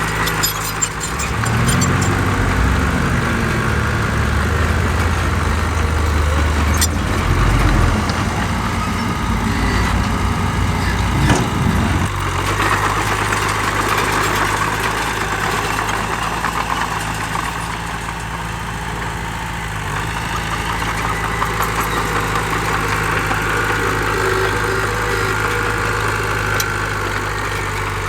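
Heavy diesel engine of an earthmoving machine running: it revs up and back down about two seconds in, works hard under load for several seconds, then settles to a steady idle-like run about halfway through.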